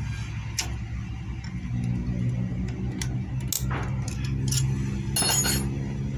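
Sharp metallic clicks and taps of hand tools on motorcycle engine parts, a few scattered strikes and then a ringing metal clatter about five seconds in, over a low steady hum.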